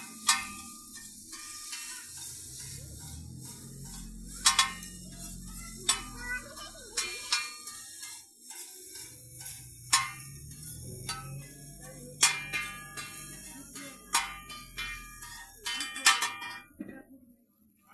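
Metal spatula clanking against a hot griddle at a street-food stall, a string of sharp strikes at irregular intervals. Some music and low voices sit under it.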